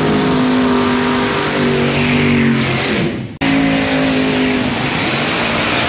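Loud V8 drag-racing engine running at a steady fast idle, its pitch falling off just before an abrupt cut about three seconds in. A second V8 dragster engine then runs steadily at a similar pitch.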